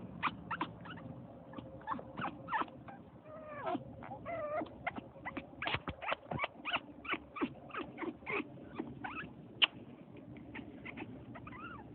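African grey parrot mimicking a puppy: a rapid run of short, high squeaks and yips, several a second, with wavering whine-like calls about four seconds in and again near the end.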